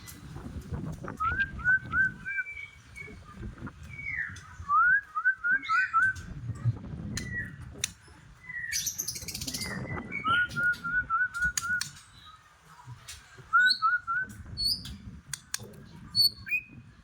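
White-rumped shama (murai batu) singing hard: short runs of four to six quick rising whistled notes, repeated several times with short pauses, plus a few higher single notes near the end. A low rumbling noise and scattered clicks run underneath.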